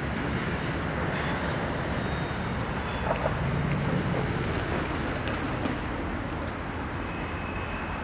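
Freight train cars rolling along the track, a steady rumble of wheels on rail that slowly fades as the end of the train moves away.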